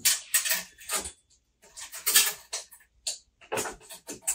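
Irregular scrapes and clicks of handling: a tape measure being worked along the shelf of a refrigerated bakery display case to take its length.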